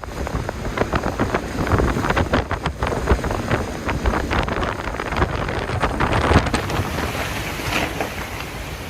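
Storm wind buffeting the microphone in strong gusts, with rain, a loud rumbling rush that eases a little near the end.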